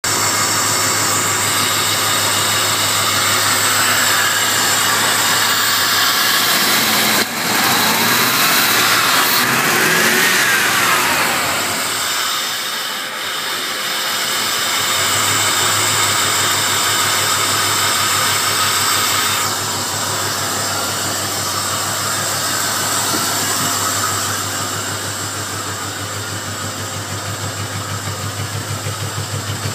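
Ford 5.0 EFI V8 (fuel-injected 302) running, revved up and down twice about a quarter of the way in, then settling back to an idle that pulses unevenly near the end. The engine runs horribly, for a cause the owner has not yet found.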